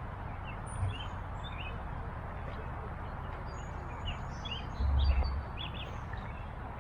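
Birds chirping, with short high calls scattered throughout over a steady background hiss. A brief low rumble comes about five seconds in.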